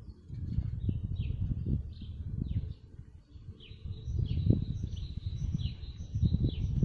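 Small songbirds chirping in the trees: a string of short, high notes that sweep downward, repeated again and again. Under them runs a louder, irregular low rumble of wind buffeting the microphone.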